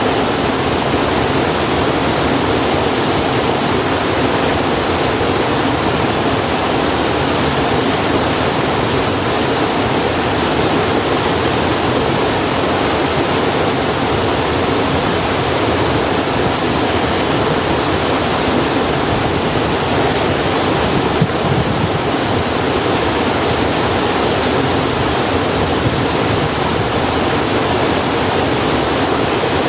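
Loud, steady rushing noise, even and unbroken, with one faint crack a little past the middle.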